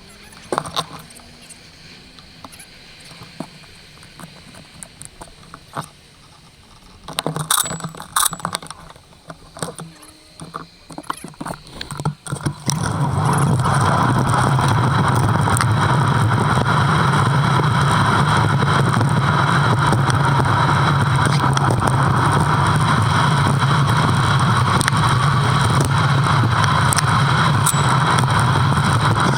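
Riding noise from a bike ride picked up by a GoPro. At first there are light rattles and clicks. About thirteen seconds in, a sudden loud, steady rushing noise sets in as the bike gets going.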